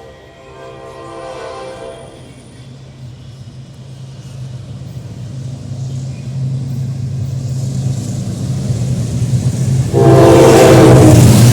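General Electric diesel locomotive approaching, its engine drone growing steadily louder, then a loud horn blast near the end.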